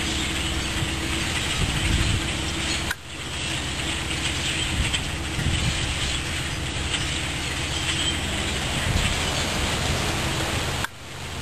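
A huge flock of birds calling all at once, a dense, continuous chattering din over a low rumble. It drops away sharply for a moment about three seconds in and again near the end.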